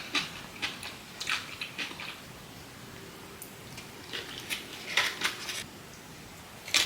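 Close-miked eating sounds from a poke bowl: quick wet mouth clicks and chewing, with light taps of cutlery on the bowl. They come in two bursts with a quieter pause between.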